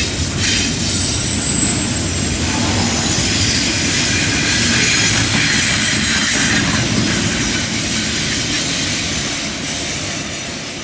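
Double-stack container cars of a freight train rolling past on a curve: steady wheel and rail rumble with thin, high flange squeal over it, fading near the end.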